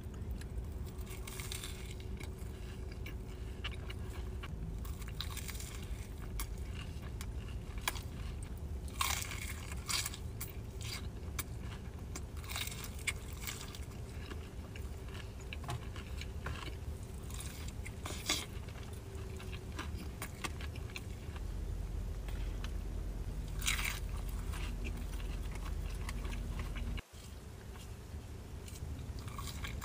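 Close-up mukbang eating sounds: crunchy bites and chewing of fried chicken sandwich and chicken fingers, with many crisp crackling clicks over a steady low hum.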